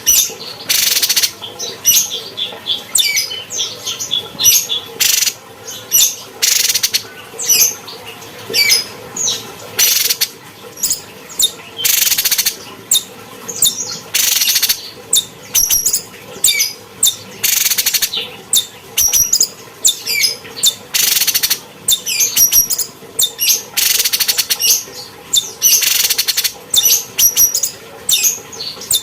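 Cucak cungkok (a bulbul) singing a fast, continuous run of high chirps and short whistled notes, broken every second or two by brief harsh, rasping bursts.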